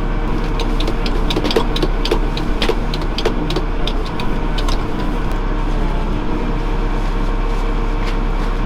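A farm machine's diesel engine running steadily, with a rapid series of clicks and knocks over the first few seconds.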